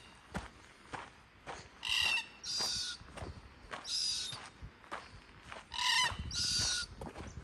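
A bird giving loud, harsh calls, often in pairs, about every two seconds, with footsteps on a bush track faintly between them.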